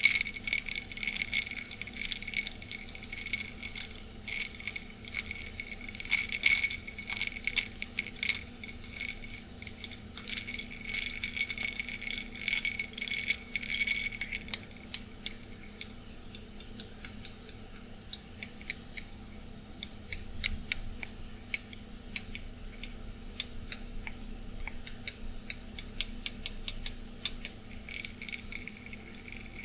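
Ice cubes clinking and rattling in a glass of ice water as it is swirled. The clinking is dense and ringing for about the first half, then turns into sparser, lighter clicks. A steady air-conditioner hum runs underneath.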